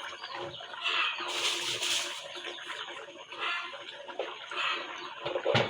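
Water running and splashing in uneven gushes, loudest briefly between one and two seconds in, with a short knock near the end.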